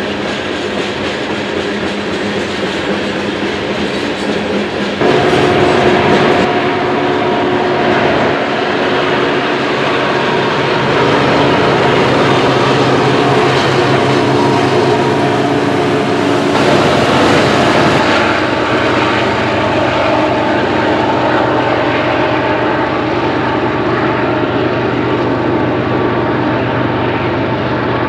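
Diesel-electric locomotives of a loaded BNSF coal train passing close by: a steady engine drone with rail and wheel noise. The sound jumps suddenly louder about five seconds in and shifts again around eighteen seconds in.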